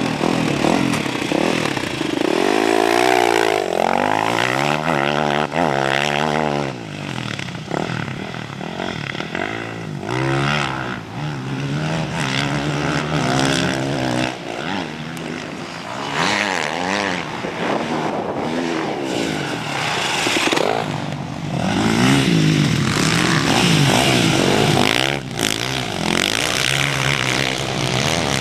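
Motocross dirt bike engine revving up and down again and again, its pitch rising and falling every second or two as the bike is ridden and warmed up.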